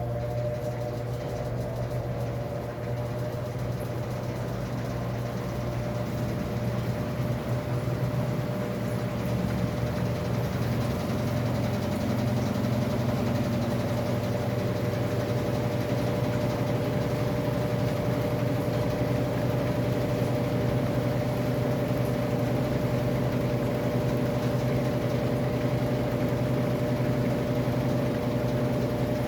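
Electrolux LAC13 13 kg washing machine running with a steady motor hum and a couple of steady whining tones, louder about nine seconds in and then even.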